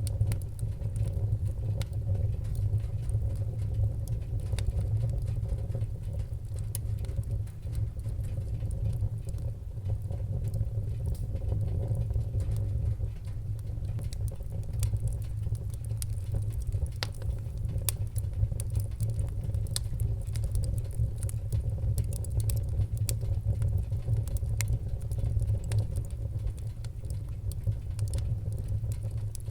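Wood-burning fire crackling, with frequent sharp pops and snaps over a steady low rumble.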